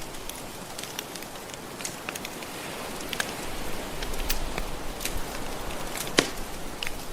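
Wood fire crackling with scattered small pops and one sharp, louder snap about six seconds in, over a steady wash of gentle ocean waves.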